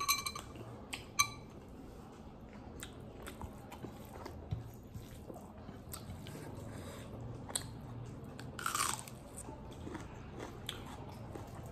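Close-miked eating sounds: a person chewing and biting mouthfuls of rice and pan-fried vegetable pakora, with small crunches and mouth clicks. Two short ringing clinks about a second apart open it.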